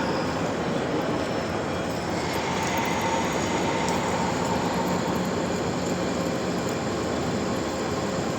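Lathe running steadily while turning a shaft: an even machine noise with a faint whine that fades after the first couple of seconds.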